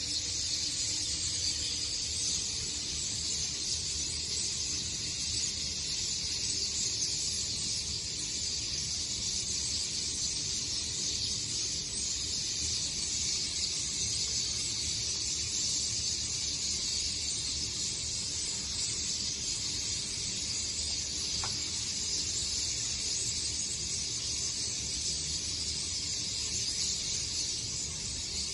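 A large flock of birds calling all at once, so many voices that they blend into one steady high hiss with no single call standing out.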